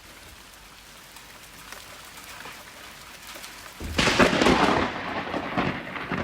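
Steady rain hissing, then about four seconds in a loud thunderclap breaks suddenly and rumbles on with crackling for the rest.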